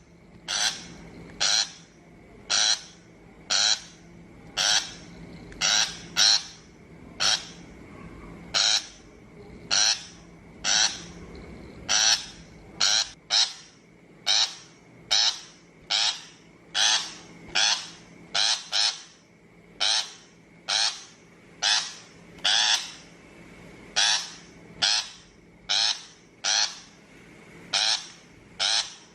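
A shrike giving harsh, grating calls in a steady series, roughly one to two calls a second.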